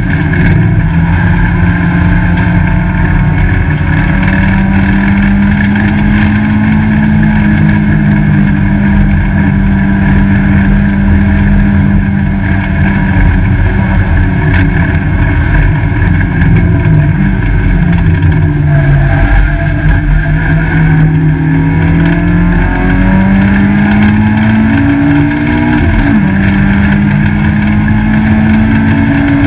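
Peugeot 205 GTi race car's four-cylinder engine heard from inside the cabin under hard acceleration at high revs, with road and wind noise. About two-thirds of the way through the revs fall as the car slows, then climb again in steps through the gear changes.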